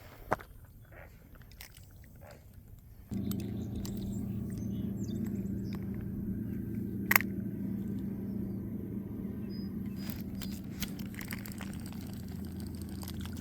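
A few faint clicks, then about three seconds in a steady low engine hum starts abruptly and keeps running, with one sharp click near the middle.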